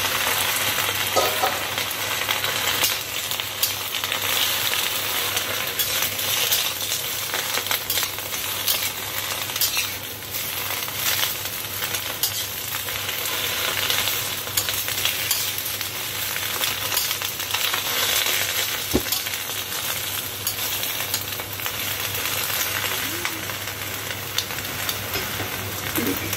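Cabbage leaves sizzling steadily as they fry in a hot wok, with a spatula now and then scraping and tossing them, making short clicks against the pan.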